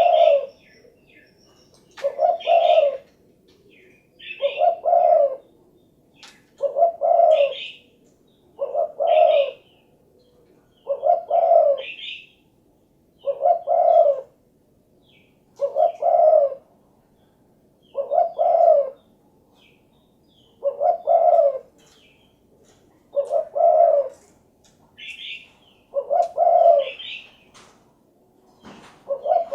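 Spotted dove (derkuku, tekukur) cooing its call over and over, one phrase about every two seconds.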